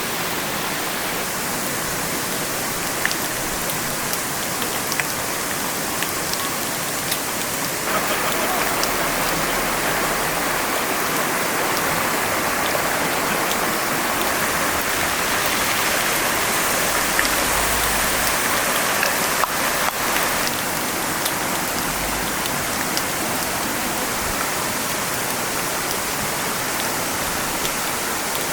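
A mountain stream rushing steadily. For about twelve seconds in the middle, a louder crackling sizzle of trout fried rice frying in a pan over the campfire rides on top.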